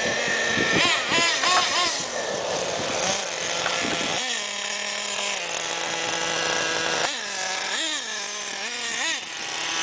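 A 1/8-scale RC car's .21 nitro engine revving, its high whine rising and falling with the throttle. From about four seconds in it drops to a steadier, lower pitch, then gives several quick blips of throttle near the end.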